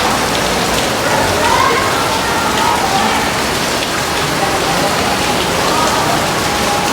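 Steady heavy rain falling, an even, unbroken hiss. Faint wavering pitched sounds run through it.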